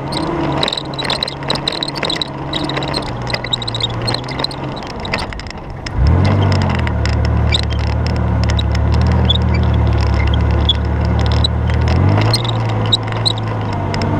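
Mitsubishi Pajero's 3.0 V6 engine pulling steadily off-road. About six seconds in it gets louder with a quick rise in revs, and it rises again near the end, with knocks and rattles from the vehicle working over rough ground.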